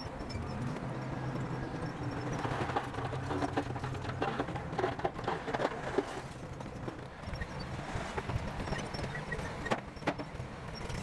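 Bulldozer's diesel engine running steadily under load, with a run of rapid clanks and knocks from about two to seven seconds in and a few more near the end.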